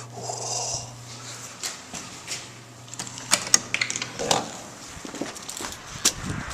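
A string of sharp clicks and knocks, as a door is unlocked and opened, over a low steady hum that stops about four seconds in.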